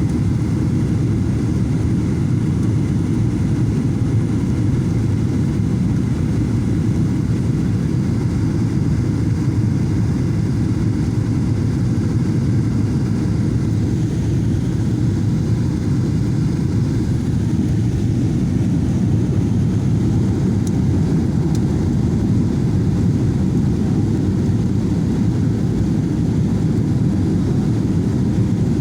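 Steady low rumble of a Boeing 737-800 in flight, heard from inside the cabin: engine and airflow noise, unchanging.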